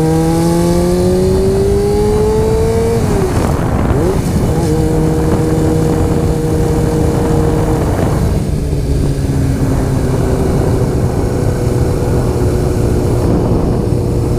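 Honda CBR motorcycle engine accelerating with a rising pitch, which drops about three seconds in and then holds steady at cruising speed. Heavy wind noise on the microphone runs under it.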